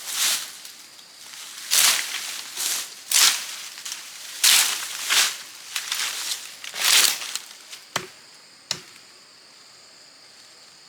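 Repeated chopping strokes with a blade through brush or wood, each a short, sharp hiss, about one a second. Two sharp knocks come about eight seconds in, then the strokes stop and only a faint steady high tone remains.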